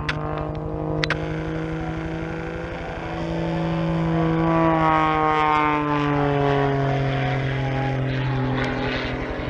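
Propeller-driven aircraft engine running at full power as the plane passes, its pitch sliding steadily lower over the last few seconds as it goes by. A sharp click about a second in.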